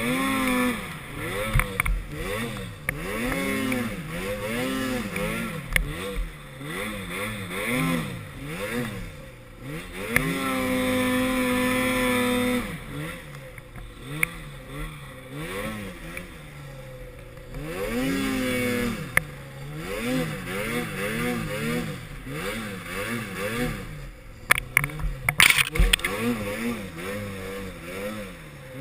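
Snowmobile engine revving up and down over and over as the throttle is worked, held at high revs for about two seconds near the middle. A few sharp clatters come near the end.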